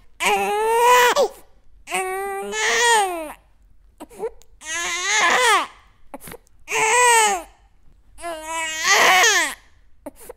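Baby crying in a series of about five loud wails, each lasting about a second, with short breaths in between.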